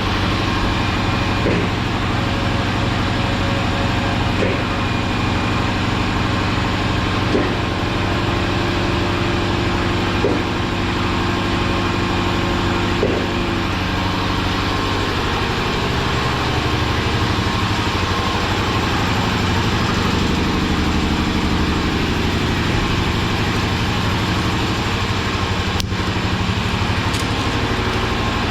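Shop air compressor running, a steady loud motor drone, with light ticks about every three seconds in the first half. The drone shifts about halfway through, and there is a sharp click near the end.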